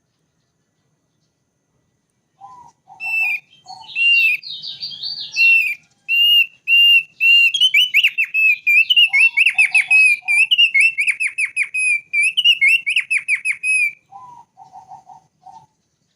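Thick-billed white-eye singing: after about two seconds of silence, a long run of rapid, repeated whistled notes lasts about ten seconds, with short groups of lower notes before, partway through and after it.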